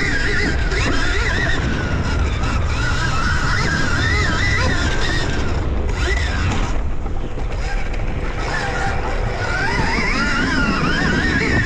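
Dirt bike being ridden on a motocross track, its motor pitch rising and falling with the throttle over heavy wind rumble on the camera.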